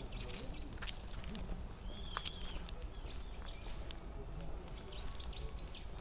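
Several small birds chirping, short curved high notes repeated throughout, with one louder call about two seconds in, over a steady low background rumble.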